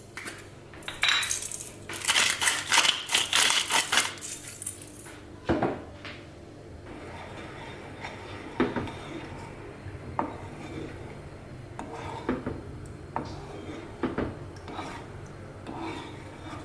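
Kitchen utensils and dishes clinking and scraping: a dense run of sharp clicks and scrapes in the first few seconds, then scattered single clicks and taps.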